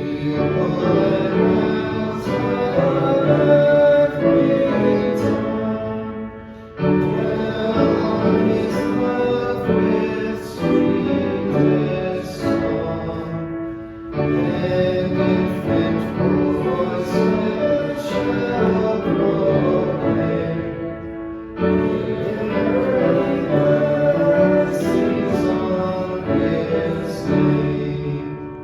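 Church hymn sung with instrumental accompaniment, in sung lines with three short breaks between them.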